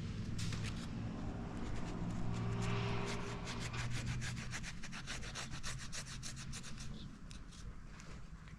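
A rag rubbing back and forth over the oily block of a 2.5-litre engine, wiping off excess oil, in quick repeated strokes that come thickest in the middle and ease off near the end. A steady low hum runs underneath.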